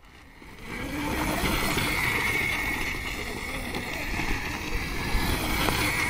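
36-volt electric kids' quad bike being driven: its electric motor whines with a steady high tone over rumbling tyre and drivetrain noise, starting up less than a second in.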